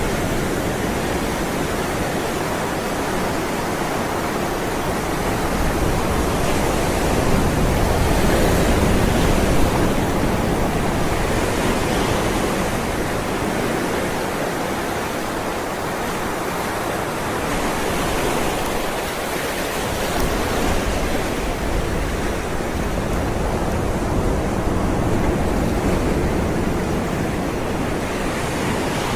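Ocean waves rolling in: a continuous rush of surf that swells and eases every several seconds.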